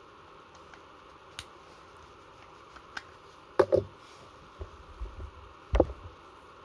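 Scattered clicks and knocks from the hard parts of a Marushin SAA .45 gas revolver being handled. There are a few faint clicks, a loud double click about three and a half seconds in, soft low thumps, and another loud click near six seconds.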